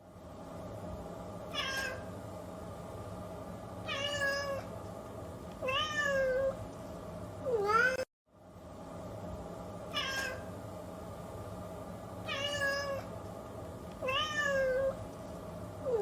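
Domestic cat meowing: eight short meows in two identical runs of four, split by a brief dropout near the middle. The last meow of each run is the loudest and bends in pitch. A steady hum runs under them.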